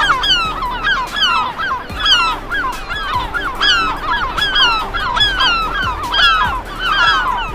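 A flock of birds calling over one another: short, arching calls, several a second, packed densely together.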